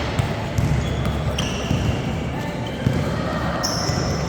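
Ball bouncing on a hard court during a youth team game, with short high squeaks like shoes on the floor, about a second and a half in and again near the end, over voices echoing in the hall.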